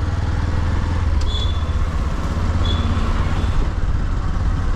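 Motorcycle engine running steadily under way, with road and wind noise; two brief high-pitched chirps come about a second and a half apart.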